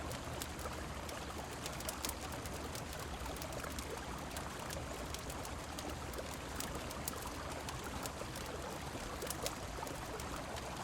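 Steady rush of flowing river water and rain, dotted throughout with short, sharp crackles from a wood fire.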